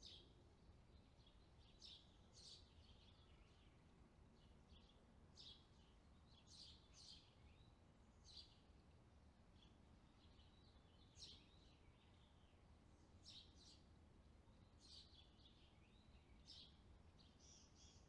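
Faint bird chirps: short, high calls every second or so, some in quick pairs, over a low steady background hiss. Near the end a faster run of chirping begins.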